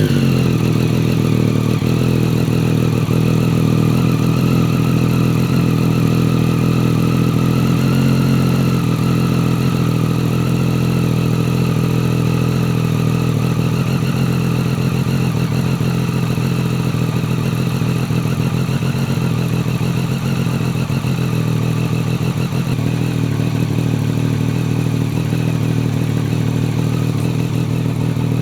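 Triumph Street Triple 765 RS's inline three-cylinder engine, just fired up, idling steadily through a Scorpion Serket Taper carbon silencer with the dB killer removed.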